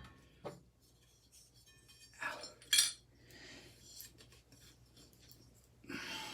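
Metal parts of a ceiling fan clinking and scraping a few times as a threaded piece is unscrewed by hand. There are short gaps between the sounds, and a longer scrape near the end.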